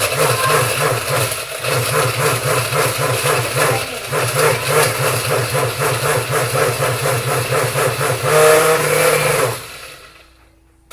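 Countertop blender motor running at full speed, blending ice with water and almond milk. Its pitch rises briefly near the end, and it switches off about nine and a half seconds in.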